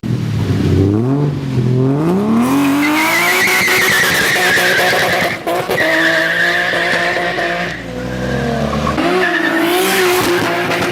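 Tuned car engine revving hard as the car accelerates, its pitch sweeping up through the first few seconds. A high wavering squeal rides over it, with short breaks about five and a half and eight seconds in.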